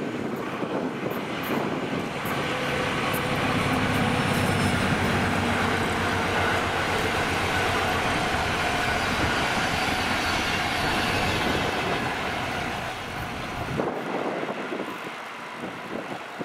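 SM42 diesel-electric locomotive hauling a passenger train past, its engine and the wheels on the rails together. The sound builds over the first few seconds, stays loud for about ten seconds, then fades, its deep part dropping away about fourteen seconds in.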